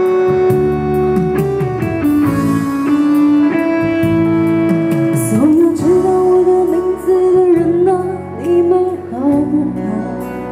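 Live band music: an instrumental break led by a guitar line whose notes bend in pitch over held chords.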